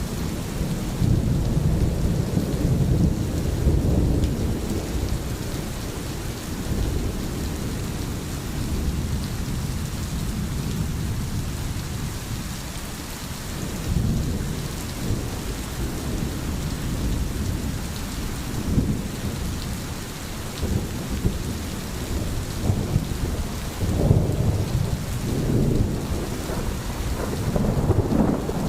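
Steady rain with rolling thunder: continuous rain hiss under low rumbles that swell in the first few seconds, again about 14 s in, and more strongly from about 24 s in.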